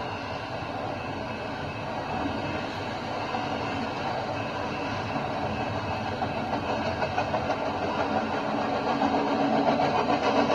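Freight train running past: a steady rumble of wheels on rail, growing louder near the end, where a steady low engine hum comes up as well.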